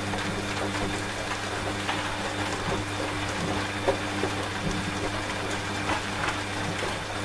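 Washing machine running with a steady low motor hum, mixed with steady rain and scattered drop ticks.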